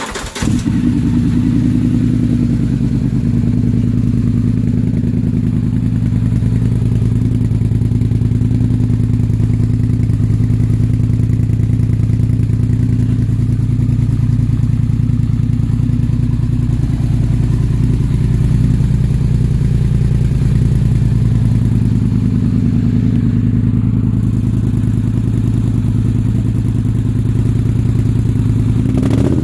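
Polaris Sportsman 850 XP ATV's parallel-twin engine catching on its first startup with a newly fitted Big Gun slip-on exhaust, then idling steadily.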